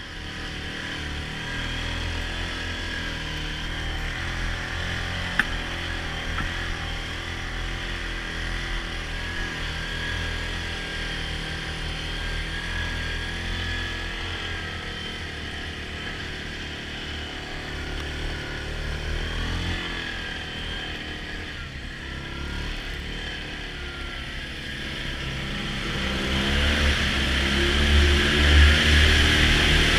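Yamaha Grizzly ATV on a snow track kit, its engine running steadily under load, then louder as it is pushed harder over the last few seconds.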